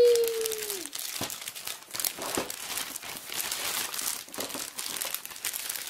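Plastic packaging crinkling and rustling in the hands, with irregular small crackles, as a toy washing machine is unwrapped.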